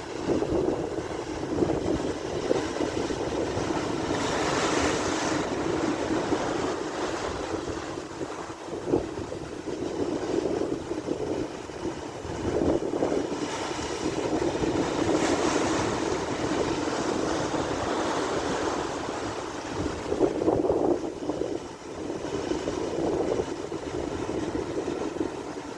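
Strong wind buffeting the microphone over the rush of rough sea surf. The noise swells and eases in gusts, with harder hissing surges about four seconds in, again around thirteen to sixteen seconds, and near twenty seconds.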